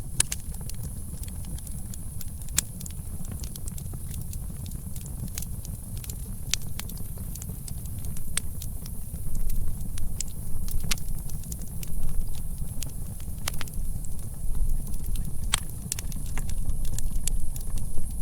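Campfire crackling: sharp, irregular pops and snaps over a low steady rumble.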